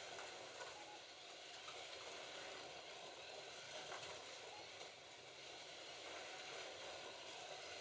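Slot cars running on the track: a faint, steady whirring hiss of their small electric motors and guide braids on the rails.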